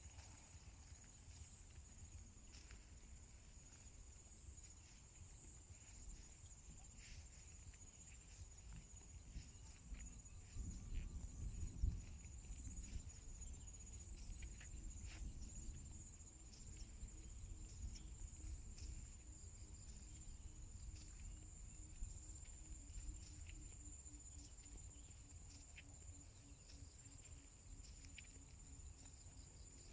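Insects chirring in a steady high-pitched drone, with scattered light ticks and faint footsteps on a wet path. There is a low thump about twelve seconds in.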